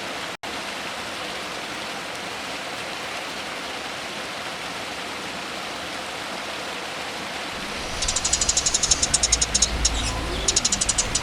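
Steady rushing water-like hiss, then about eight seconds in a songbird starts a rapid, high-pitched chattering trill that repeats in runs.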